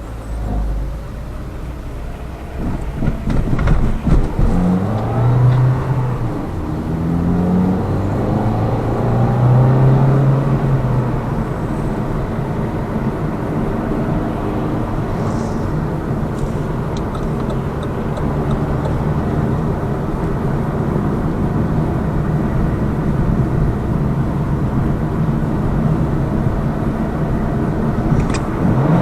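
Lada Vesta Cross's 1.8-litre engine and tyre noise heard inside the cabin while driving. The engine pitch climbs and drops back a few times in the first dozen seconds as the car pulls away and the AMT robotised gearbox changes up, then settles into a steady cruise.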